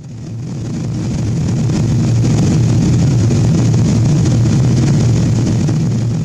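Steady low rumble of cabin noise aboard a Boeing 777-200 airliner: engine drone and airflow, heaviest in the bass with a thin hiss above. It fades in over the first second or so.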